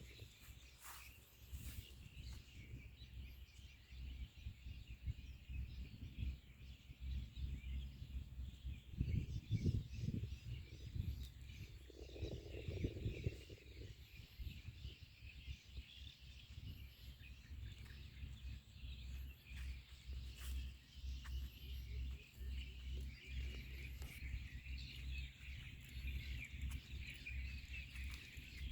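Faint outdoor ambience of birds chirping over a steady high chorus of insects, with a low fluctuating rumble underneath.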